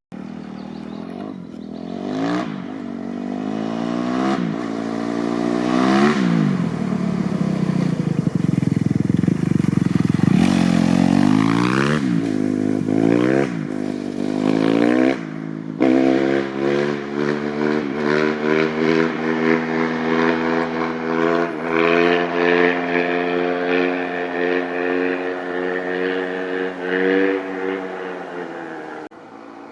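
Kawasaki KX250F's single-cylinder four-stroke engine through an FMF 4.1 RCT exhaust, revved hard in a string of rising and falling blips every second or two. About halfway through the sound drops off sharply, then the engine runs at a steadier high pitch, wavering slightly, until it falls away near the end.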